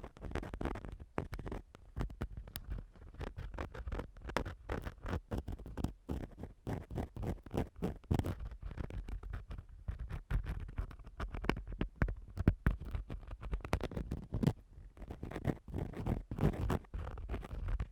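Ear-cleaning tool scratching and rubbing on a microphone, close-up ASMR style: a dense, irregular run of short scratchy strokes with no pause.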